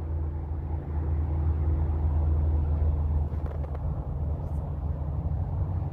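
Steady low background rumble with a faint hum and no single event standing out.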